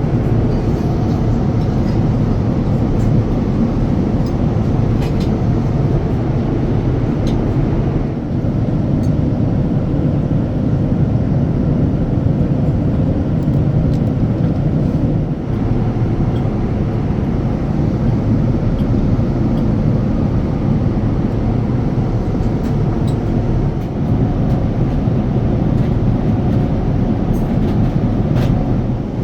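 Steady rumble of jet engines and airflow heard inside the cabin of a Boeing 787-9, with a slight change in its tone about 8 and 15 seconds in.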